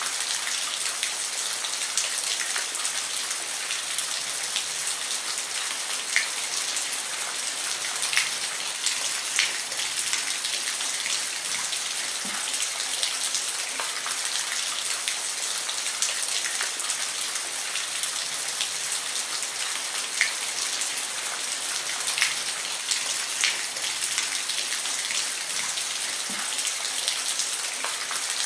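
Steady rain falling on a roof: a dense, even hiss with individual louder drops striking now and then.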